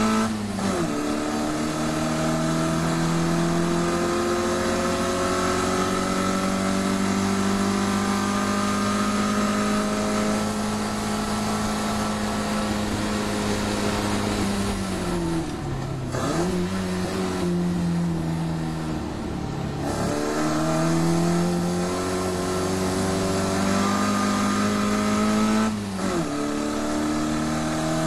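Racing Mini Cooper's 1380cc four-cylinder engine on a Weber 45 carburettor running hard at race pace. It changes up about half a second in and pulls long and rising. From about halfway it comes off the throttle and changes down with short blips, then accelerates again and changes up near the end.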